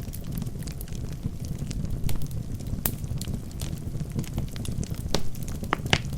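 Wood fire burning in a fireplace: a steady low rumble of flames with scattered sharp crackles and pops from the logs, the loudest about three seconds in and a cluster near the end.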